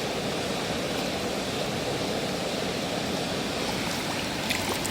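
Water running in a steady rush, washing mud off toy vehicles.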